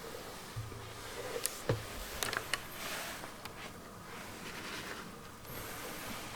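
Faint rustling and a few light clicks and knocks in a small room, bunched in about a second, with more rustling near the end: people shifting and moving about in the dark.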